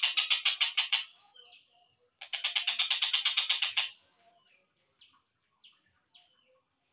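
Tengkek buto (kingfisher) calls played back slowed down: a fast series of harsh, evenly repeated notes, about ten a second, that stops about a second in. A second series follows from about two to four seconds, then a few faint short chirps.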